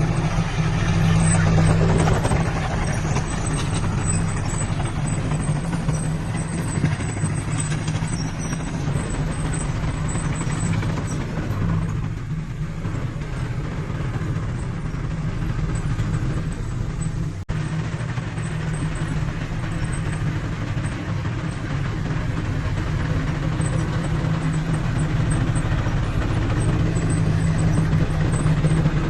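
Diesel engine of heavy earthmoving machinery running steadily, a continuous low drone that eases slightly about twelve seconds in.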